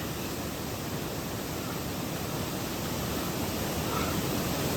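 Mountain stream water rushing over rocks, a steady even noise.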